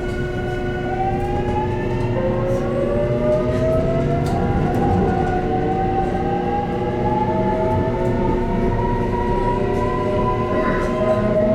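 JR Kyushu 813 series electric train's VVVF inverter traction motors whining as the train accelerates away: several tones rise slowly in pitch together from about a second in, over the rumble of the running gear.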